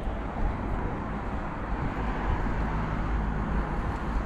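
Steady outdoor background rumble with no distinct events, most of it low and even.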